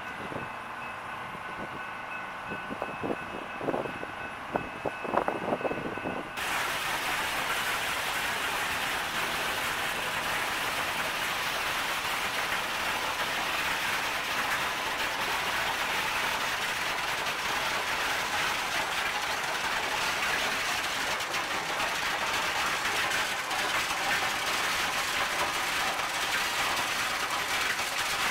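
Train rolling past on the rails: a steady rushing noise of wheels on track. It starts abruptly about six seconds in, after a thinner, quieter stretch with a few sharp knocks.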